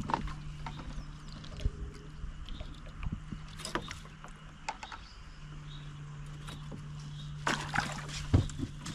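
A boat's small motor hums steadily at low speed, stopping for a moment about halfway through and then running on, with scattered knocks and two short bursts of splashing or rustling noise.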